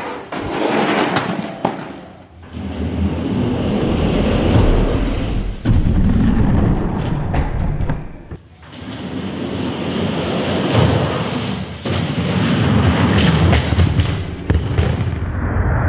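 Die-cast toy monster trucks running down a plastic racing track: a loud rumbling with scattered knocks and thuds. It breaks off briefly twice and starts again.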